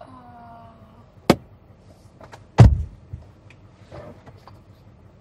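Car door shut from inside with a heavy thud about two and a half seconds in, after a short creak and a sharp click. A few light clicks follow as the seat belt is fastened.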